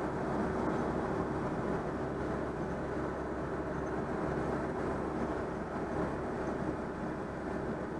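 Citroën 2CV6's air-cooled flat-twin engine and road noise at steady motorway cruising speed, an even drone with a few steady tones and no change in revs.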